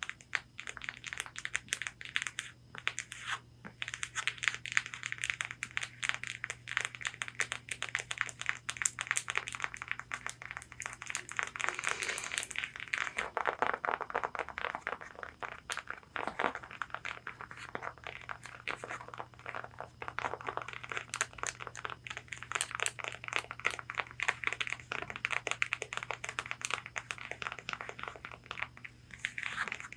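Long fingernails tapping quickly and scratching on a corset bodice, a dense run of small taps mixed with scratchy strokes across the fabric.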